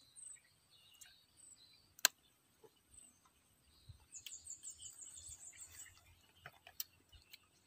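Faint, high-pitched bird chirping, with a quick run of notes about four seconds in. A sharp click comes about two seconds in, and a few smaller clicks near the end, from a plastic water bottle being drunk from and capped.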